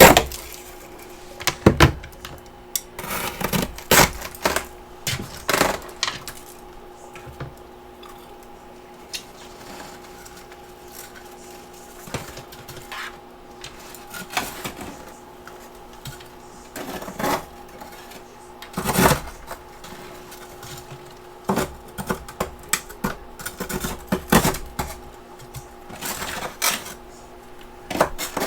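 Freezer frost and ice chunks crunched and chewed close to the microphone, in irregular bursts of sharp crackling with short pauses between bites. A faint steady hum runs underneath.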